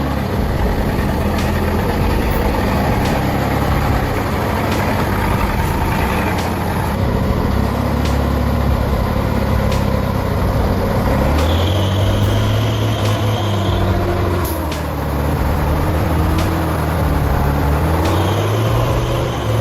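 Heavy truck's diesel engine running under load, its pitch rising and falling as it is revved. A high steady tone sounds for about two seconds past the middle.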